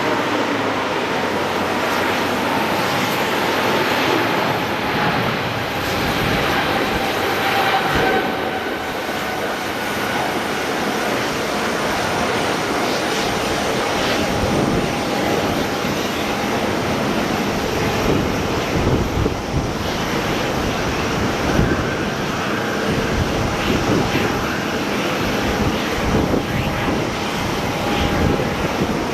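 Jet airliner engines running: a steady rushing noise with faint high whining tones.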